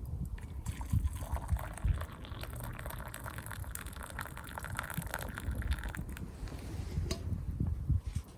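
Liquid being poured into a mug, a steady splashing pour lasting about five seconds that stops about six seconds in.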